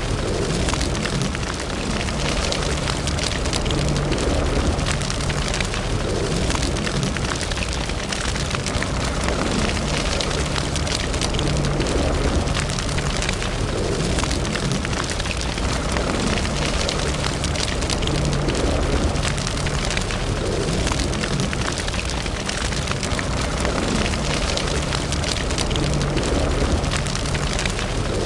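Wood fire burning in a fireplace: continuous dense crackling with many small sharp snaps, over a low steady rumble.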